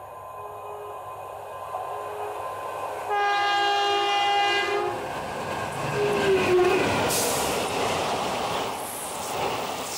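Electric locomotive horn sounding one loud blast for about two seconds, starting about three seconds in, as the express approaches. The train then passes close by at speed, a loud steady rush of coaches running over the rails.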